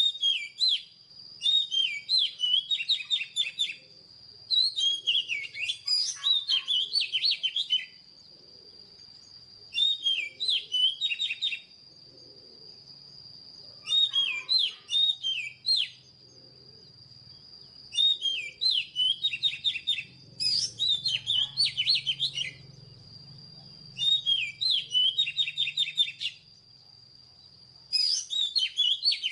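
Oriental magpie-robin singing: phrases of rapid, varied whistled notes come every few seconds, about eight in all, over a steady high-pitched tone.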